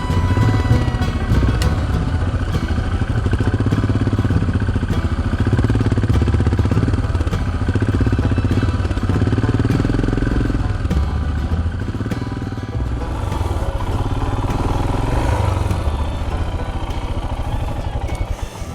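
Motorcycle engine running under way, a steady loud drone with a rapid pulsing beat, its pitch shifting somewhat through the ride.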